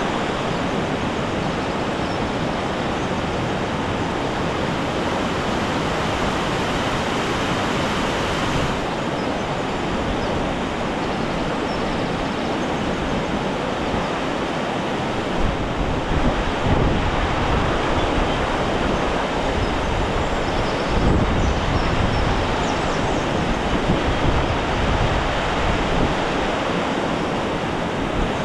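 Steady rushing noise of fast-flowing water, with wind buffeting the microphone in low gusts about halfway through.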